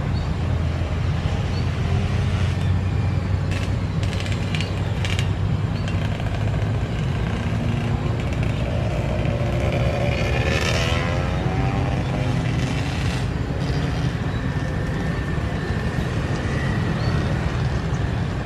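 Steady low engine rumble, with a few short clicks about four seconds in and a brief wavering sound about ten seconds in.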